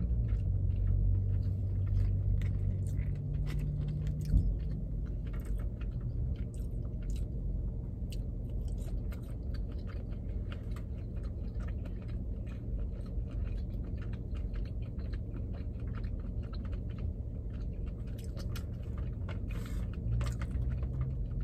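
Close-miked chewing of a sushi roll: a run of small, wet mouth clicks and smacks over a steady low hum. Near the end come a few sharper clicks as wooden chopsticks pick at the plastic sushi tray.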